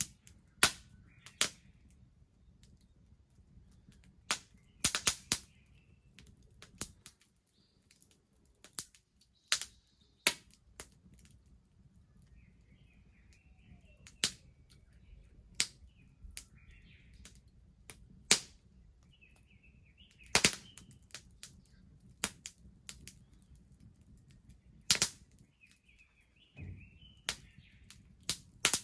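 Bonfire crackling, with sharp, irregular pops about once a second.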